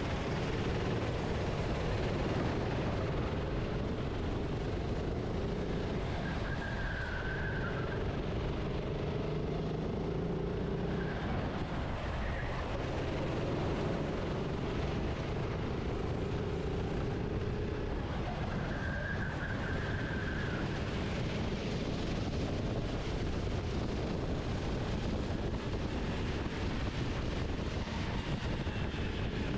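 Onboard sound of a racing kart's engine running at speed, its note rising and falling as it accelerates and slows through corners, over steady wind and road noise.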